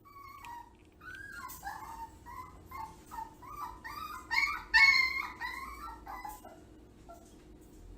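A dog whining in a quick run of short, high-pitched whimpers and yips, loudest a little past the middle.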